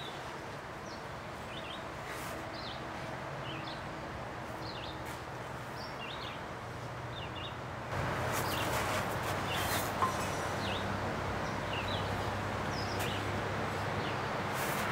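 Outdoor ambience with small birds chirping, short calls scattered throughout over a steady low background hum. The background gets louder about eight seconds in.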